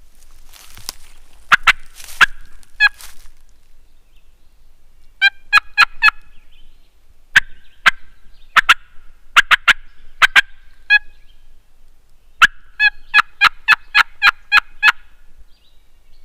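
Turkey call worked close by, sounding series of sharp hen-turkey yelps and cutts: a few notes early on, more scattered notes through the middle, and a fast run of about ten notes near the end, as a locator to draw an answering gobble.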